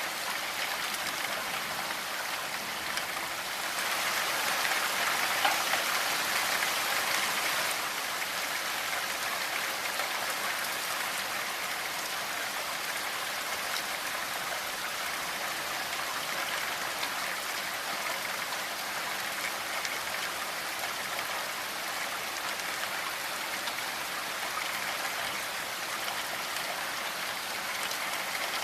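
Steady rainfall, a dense patter of raindrops, swelling a little louder for a few seconds early in the stretch before settling back.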